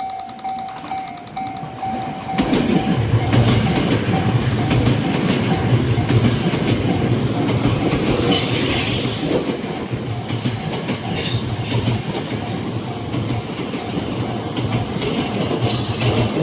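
Japanese level crossing bell ringing in a steady repeating pattern. About two seconds in, a Tokyo Metro 8000 series train rushes past on a sharp curve, wheels clattering rhythmically over the rail joints. A high wheel squeal on the curve is heard briefly about eight seconds in.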